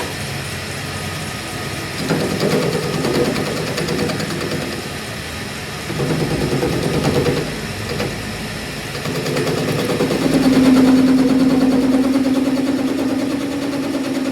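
A machine motor running steadily. It grows louder three times, and a steady hum comes to the fore about ten seconds in.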